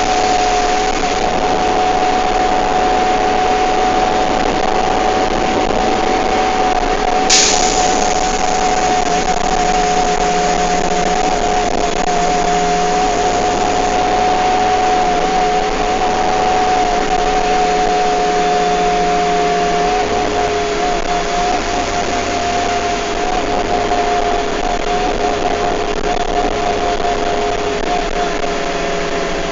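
Bus running at speed, heard from on board: steady drivetrain and road noise with a continuous two-note whine held throughout. A single sharp click about seven seconds in.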